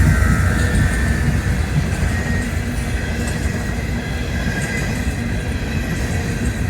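Coal train's cars rolling past on the rails, a steady low rumble with a faint high squeal from the wheels.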